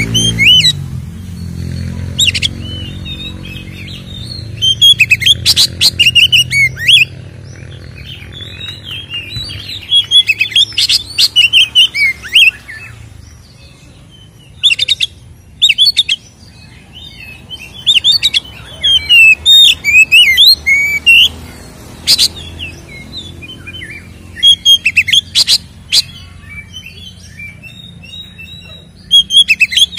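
Oriental magpie-robin (kacer) in full, fighting-mood song: a varied run of quick whistled and chattering phrases, broken again and again by short, very loud harsh bursts.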